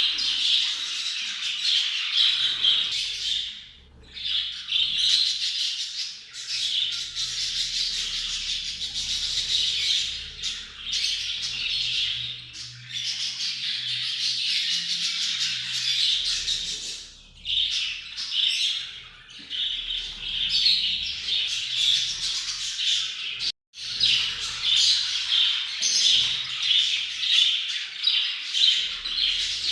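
A flock of budgerigars chattering and warbling non-stop in dense, overlapping chirps and squawks: budgie mating chatter. There are two brief lulls and a short sudden gap past the middle.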